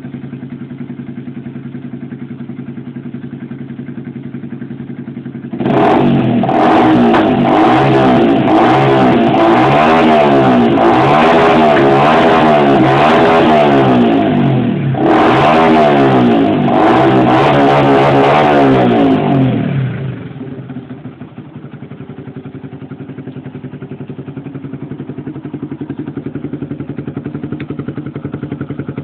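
Yamaha R15's single-cylinder 150 cc engine, breathing through a Two Brothers aftermarket exhaust, idling steadily. About six seconds in, the throttle is blipped over and over for some fourteen seconds, with a short break about halfway, the pitch rising and falling quickly. It then settles back to a steady idle.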